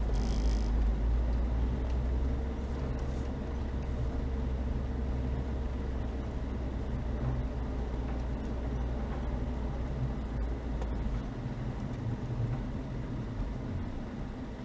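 Chevrolet Niva on the move: a steady low engine and road rumble that eases a little about eleven seconds in.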